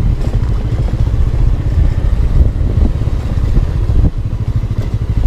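Motorcycle running steadily while being ridden, a dense low rumble, with a brief dip in loudness about four seconds in.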